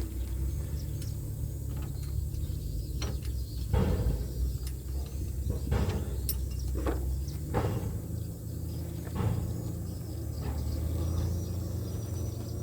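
An engine runs steadily at a low idle, with a dozen or so scattered knocks and clinks over it.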